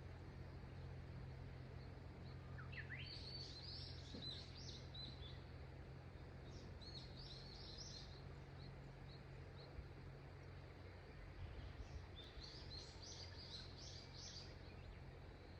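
A songbird singing three short bursts of high chirping notes, the first opening with a quick rising whistle, over a faint steady low rush of river water.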